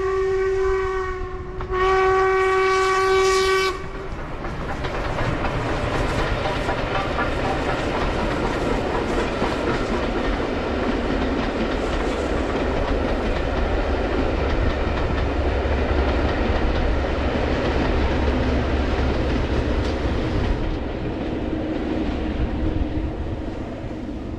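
The Jacobite steam train (the 'Harry Potter train') sounds two long whistle blasts in the first few seconds, then rumbles and clatters across the Glenfinnan Viaduct, the noise easing off about twenty seconds in.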